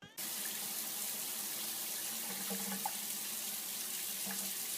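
Water running steadily from a tap, an even hiss with a few faint small sounds in it.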